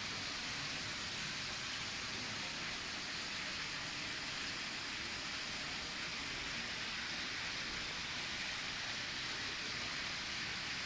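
Water of a small decorative fountain falling and splashing in a steady, unbroken rush.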